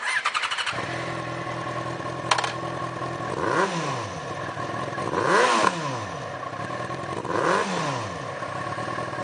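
2008 Yamaha FZ6's 600cc inline-four, fitted with a Scorpion aftermarket exhaust, cranked on the starter and catching in under a second, then idling and blipped three times, each rev rising and falling. A sharp click about two seconds in.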